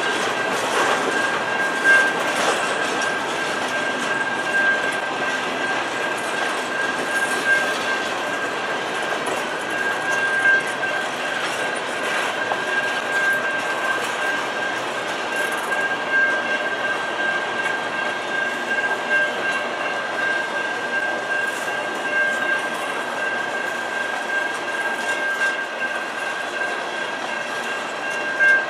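Covered hopper cars of a freight train rolling past: a steady rumble of wheels on rail with occasional clicks over the joints. A steady high-pitched tone sounds throughout.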